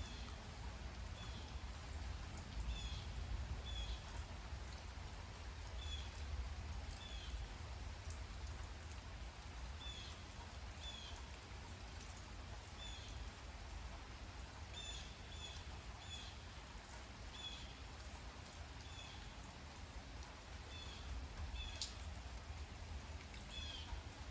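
Light rain falling, with scattered drop ticks over a steady hiss and a low rumble. Through it a small bird repeats a short, high chirp roughly once a second.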